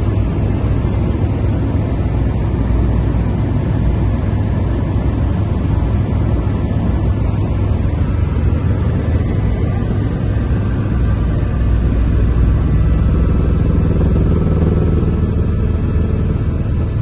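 Helicopter engine and rotor noise heard on board: a loud, steady low rumble that swells slightly about twelve seconds in.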